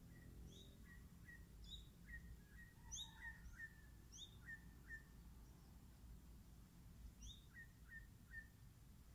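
Faint birds chirping: short, quick notes scattered throughout, some high and some lower, over a low steady background rumble.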